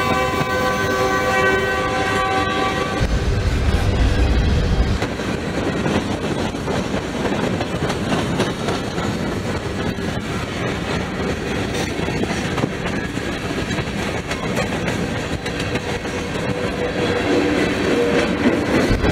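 Union Pacific diesel freight train passing close by: the locomotive horn sounds several tones at once and cuts off about three seconds in, the diesel engines rumble past, then the freight cars roll by with a steady noise of wheels on the rails.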